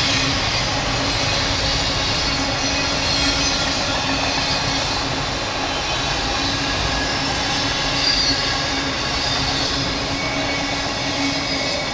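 Autorack freight cars rolling past: steel wheels on rail giving a steady rumble, with faint high wheel squeal.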